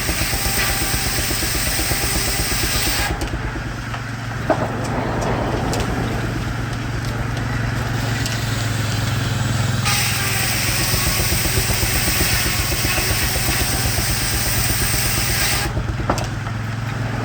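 A sawmill and the engine driving it running steadily, with a rapid even beat and a low hum throughout. A higher hiss cuts out about three seconds in, comes back about ten seconds in and cuts out again near the end, with a single knock about four and a half seconds in.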